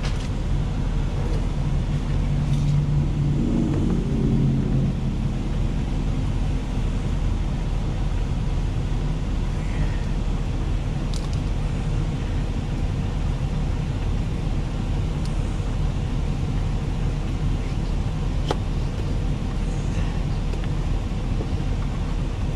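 Semi truck's diesel engine idling with a steady low rumble, with a few faint clicks.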